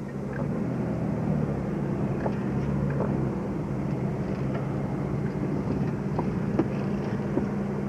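A car running, heard from inside the cabin: a steady low engine hum with road noise and a few light knocks.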